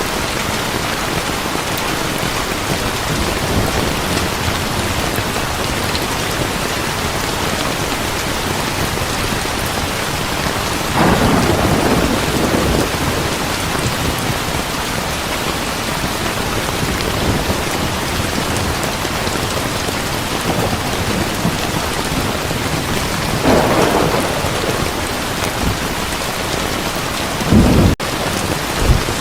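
Heavy rain falling steadily in a thunderstorm, with a rumble of thunder about eleven seconds in, another past the twenty-second mark, and a short, louder clap of thunder near the end.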